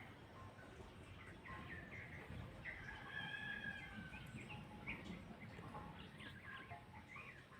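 A rooster crowing once, a long arched call, among short scattered chirps of other birds.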